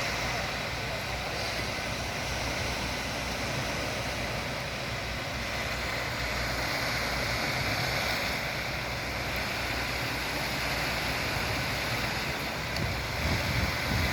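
Steady low rumble of a concrete pump truck's diesel engine running as it pumps concrete, with an even noisy hiss over it.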